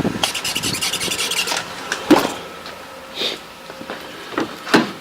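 Starter motor cranking the four-cylinder engine of a 1987 Honda Accord, which has stood unused for about 17 years. It makes a fast rasping rhythm for about a second and a half, then a few scattered knocks and clicks.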